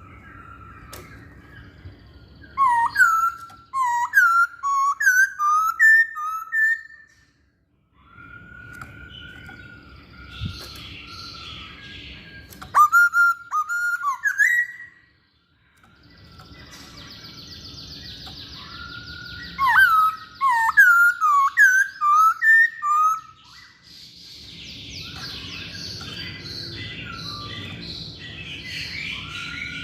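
Masked laughingthrush (Poksay Hongkong) singing: three loud runs of sharp, swooping whistled notes, each a few seconds long, with pauses between them.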